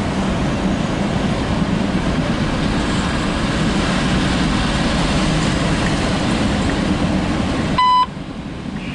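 An empty CSX autorack train passing, with the steady noise of its wheels running on the rails. Near the end this noise drops away suddenly and a short, steady beep sounds from a scanner radio, just ahead of a defect detector announcement.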